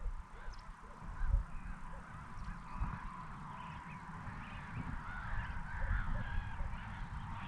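A flock of waterbirds calling: many short overlapping honking calls that grow busier in the second half, over a low rumble.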